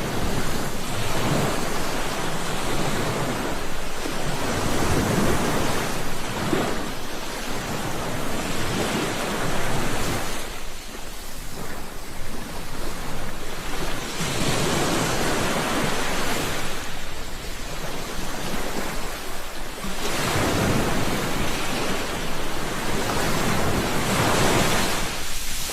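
Ocean waves breaking and washing on a shore, swelling and falling back in surges every few seconds.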